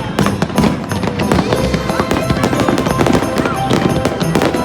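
Fireworks display going off: a rapid, continuous run of bangs and crackles, with music playing along.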